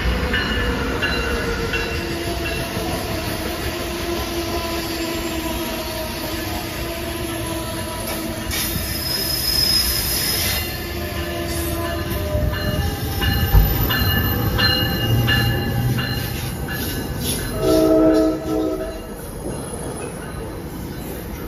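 NJ Transit ALP-46A electric locomotive and its coaches rolling past and slowing: a steady whine and squeal from the wheels and brakes, and a run of wheel clicks over the rail joints. A short horn blast sounds near the end and is the loudest moment.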